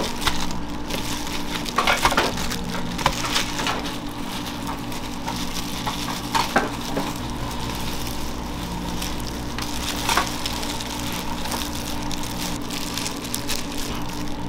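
Food sizzling on a hot cooking surface over a steady low machine hum, with a few sharp clicks of utensils.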